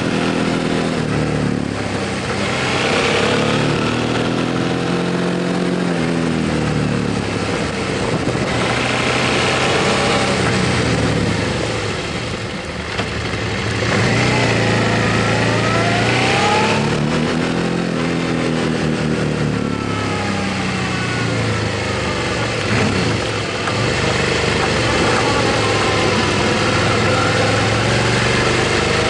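Motorcycle engine running on the move, its pitch repeatedly climbing as it accelerates and dropping back, as through gear changes.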